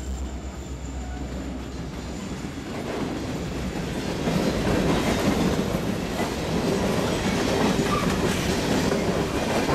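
Freight train passing close by: a low diesel locomotive engine hum fades in the first couple of seconds as the last locomotive goes by. It gives way to a steady, louder clatter of open-top coal cars rolling over the rails.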